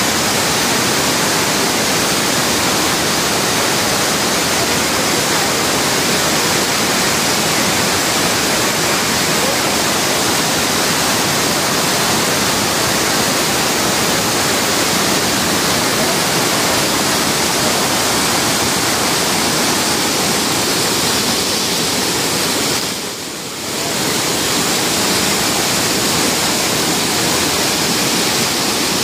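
Waterfall's rushing water, a steady loud noise that dips briefly about two-thirds of the way through.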